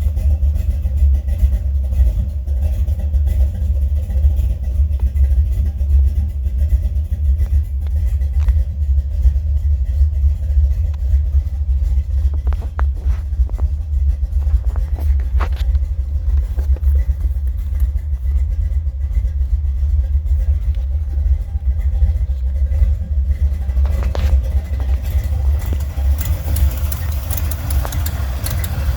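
Buick 455 Stage-1 V8 running with a steady, deep rumble. A hiss grows in over the last few seconds.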